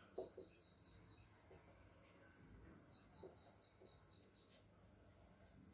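Near silence, with a bird faintly chirping in the background: a quick run of short, high, evenly spaced chirps near the start and another about three seconds in.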